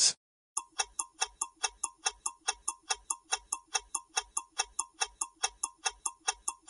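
Countdown timer sound effect: clock-like ticking at about five ticks a second.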